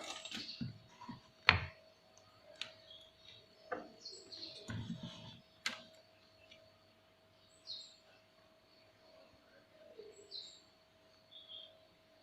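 Scattered sharp clicks and taps from handling the circuit board and multimeter probes while measuring a resistor, about five in the first six seconds. A few faint, short bird chirps come later, over a faint steady tone.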